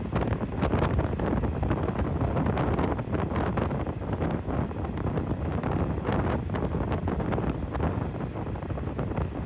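Wind buffeting the microphone over the running noise of a Hitachi RHN diesel railcar in motion, with scattered sharp clicks and knocks through a steady low rumble.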